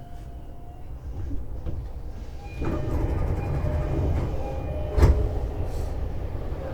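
Inside an E233-series commuter train: quiet at first, then the noise rises sharply about two and a half seconds in with a few short steady tones, and a single loud thump about five seconds in.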